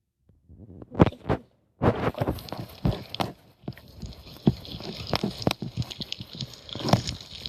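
Homemade slime being worked by hand: a dense, irregular run of sticky clicks and squelches, starting with two sharp clicks about a second in and going on steadily after.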